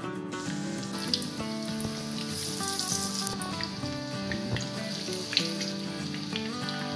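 Breaded egg-stuffed potato patties sizzling as they shallow-fry in hot oil in a frying pan, a steady hiss, with background music playing over it.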